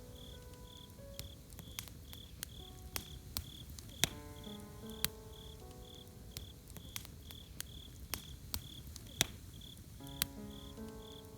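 Campfire crackling with scattered sharp pops, over crickets chirping in a steady pulse about twice a second. Soft sustained music notes play underneath, with chords about four seconds in and again near the end.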